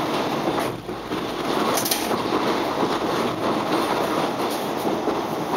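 Suburban electric train running, heard from inside the carriage: a steady rumble of wheels on rails with a few sharp clacks. The loudness dips briefly about a second in.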